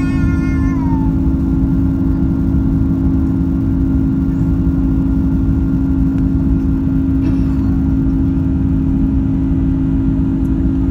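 Cabin noise inside an Airbus A330-200 airliner: a steady rushing roar with a constant low hum, unchanging throughout.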